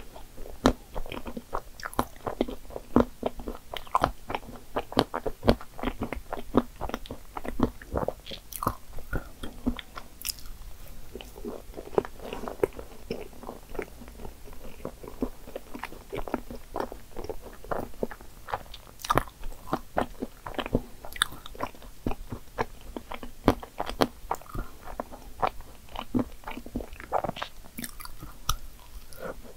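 Close-miked chewing of soft cream puffs with whipped cream and chocolate chips: irregular wet mouth clicks and chewing.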